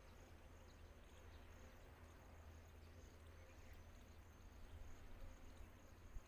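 Near silence: faint outdoor background with a low rumble and a thin, steady high-pitched whine.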